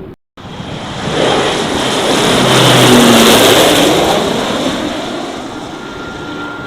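Light aircraft passing close by, its engine and propeller noise rising to a peak about three seconds in and then fading, with the engine note dropping in pitch as it goes past.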